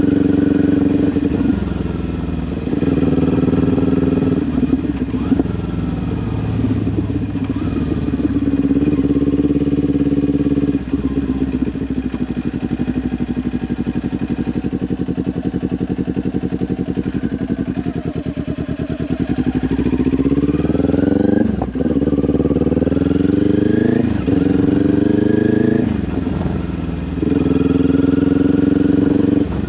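2022 Kawasaki Ninja 400's parallel-twin engine through an SC-Project aftermarket exhaust, under way. It holds steady revs with a few brief dips, drops for several seconds to a low, pulsing rumble, then climbs in pitch through quick upshifts about two-thirds of the way in before settling to steady revs again.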